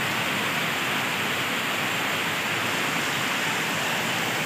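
Heavy rain pouring down on wet, puddled ground: a steady, even hiss of a downpour.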